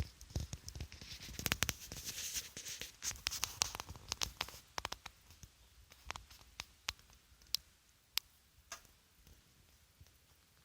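Irregular light clicks and taps echoing in a chimney shaft, thick in the first five seconds and thinning to single ticks after.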